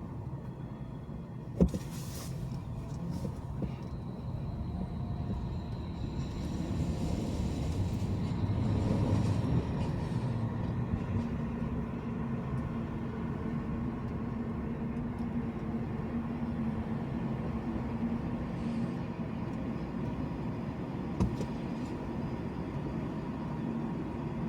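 Steady road and engine noise of a car driving in traffic, swelling about eight to ten seconds in. A sharp click comes about one and a half seconds in and another near the end.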